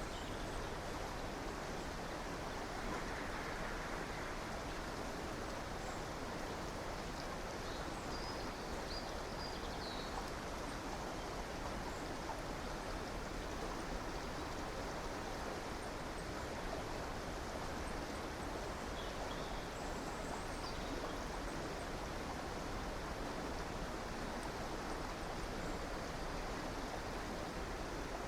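Steady rush of a flowing river or stream, even and unchanging. A few faint, high bird chirps come through it briefly near the start, about a third of the way in, and again past the middle.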